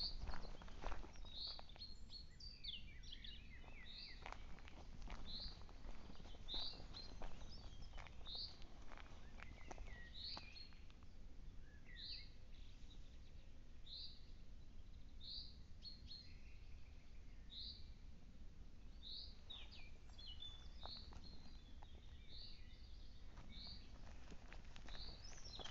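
A songbird repeating a single short, high call note about once a second, steady throughout, with other birds twittering briefly now and then. A few footsteps or rustles near the start and about halfway.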